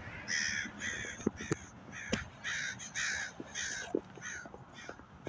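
A bird calling over and over, a series of short calls at about two a second, with a few sharp clicks among them.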